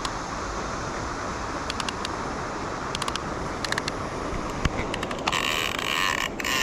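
Fishing reel ratcheting in short runs of clicks, then a loud continuous buzz from about five seconds in as line runs or is reeled during the hook set. A steady rushing noise lies under it.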